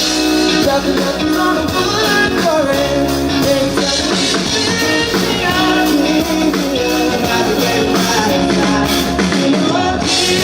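A live band playing an upbeat pop-rock song, with a voice singing at times over the band.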